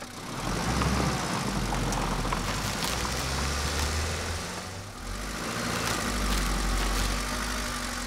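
Car engine sound effect: a steady low running rumble that dips briefly about halfway through, then carries on.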